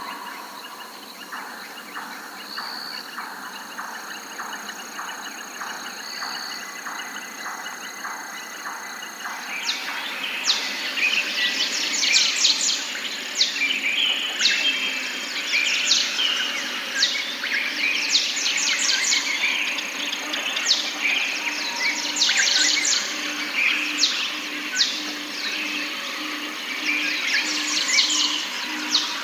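Forest birds chirping and singing. It starts sparse, with a few short high calls over a thin steady high tone and a slow run of soft ticks. About a third of the way in it turns into a dense chorus of quick, sharp, downward-sweeping chirps. A low note pulses about once a second through the last third.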